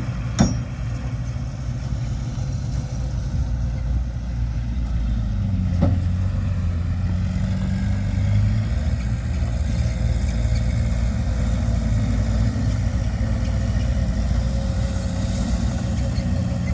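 Diesel engine of heavy earthmoving machinery running steadily. There is a sharp knock about half a second in and another just before six seconds, and the engine note rises briefly soon after.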